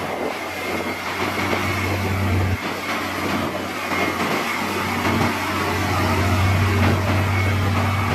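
Heavy diesel machinery running: a deep engine hum that drops away about two and a half seconds in and comes back about two seconds later, over a steady broad noise and a faint high whine.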